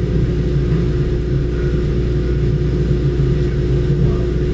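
Steady low mechanical rumble with a constant droning hum, unchanging throughout.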